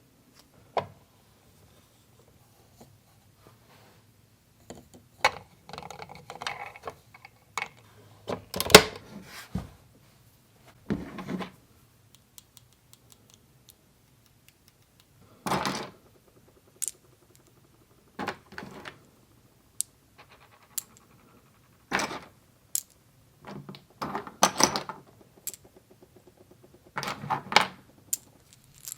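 Small plastic toy kitchen pieces being handled: scattered sharp clicks, taps and short rattles, with quiet pauses between them.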